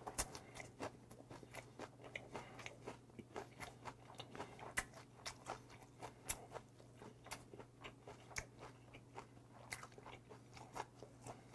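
A person chewing a mouthful of food close to the microphone: a string of faint, irregular crunches and mouth clicks.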